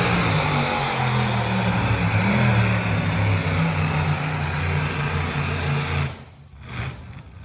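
Tractor engine running hard at a tractor pull, its pitch rising briefly about two seconds in, then dropping away about six seconds in.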